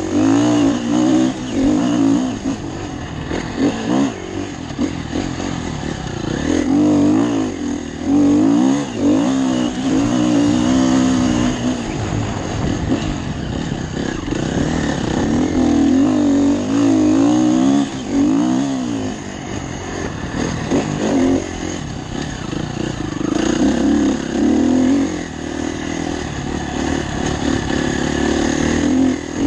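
Motocross bike engine revving up and easing off again and again through the whole stretch, its pitch repeatedly rising and falling as the rider accelerates and shifts around the track, heard from a helmet-mounted camera.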